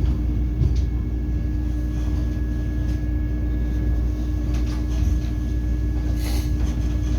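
Steady low rumble and constant hum heard inside a Vande Bharat Express coach, with a brief hiss about six seconds in.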